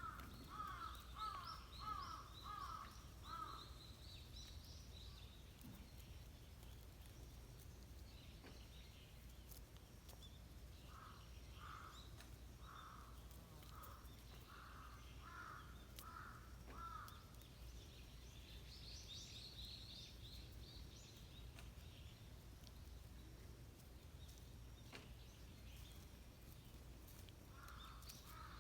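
A crow cawing in quick runs of seven or eight caws, once at the start, again around the middle, and again near the end, with small birds chirping higher up. Both are faint.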